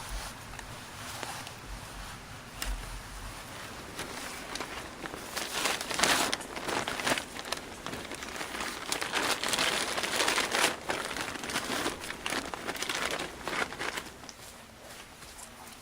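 Irregular crinkling and rustling with scattered sharp crackles, loudest in the middle stretch.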